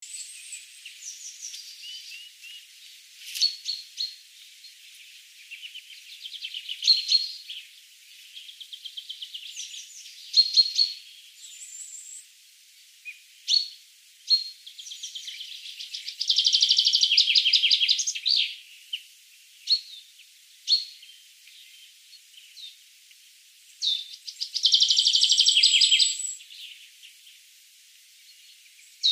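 Small birds chirping: high, thin chirps and short gliding notes, broken twice by a loud, rapid trill lasting about two seconds.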